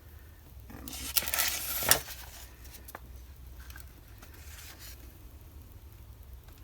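Small hard craft supplies handled on a tabletop: a rattling clatter for about a second that ends in a sharp clack about two seconds in, then a few faint taps.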